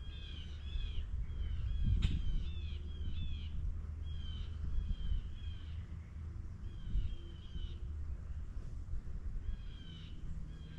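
A songbird singing phrases of short, high, arching notes repeated quickly, with short pauses between phrases, over a low steady rumble. A single sharp click comes about two seconds in.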